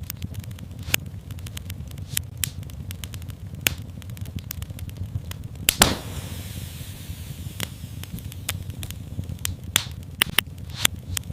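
Wood fire in a fireplace crackling, with irregular sharp pops, the loudest nearly six seconds in, over a low steady rumble of the flames.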